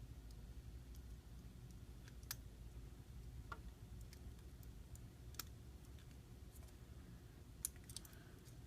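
Near silence with a few faint, scattered clicks and taps: small repair tools handling the parts of an iPhone while its flex cable connector is being lined up.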